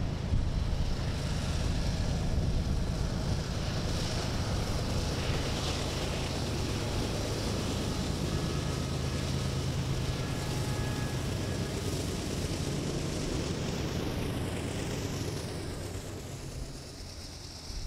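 Coal train's diesel locomotives running with a steady low drone and rumble, with wind buffeting the microphone; the sound fades off near the end.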